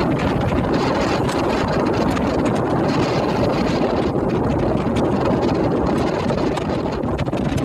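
Steady, dense rumble of a large passenger ferry under way: engine and water noise with wind on the microphone.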